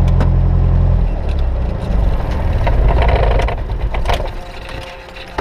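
Cessna 172S's four-cylinder Lycoming engine idling steadily, then about a second in it runs unevenly and winds down, fading away over the next few seconds as it is shut down. A few sharp clicks near the start and end.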